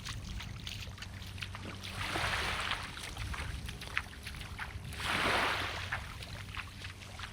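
Small waves washing in at the water's edge: two swells of hiss about three seconds apart over a steady low rumble.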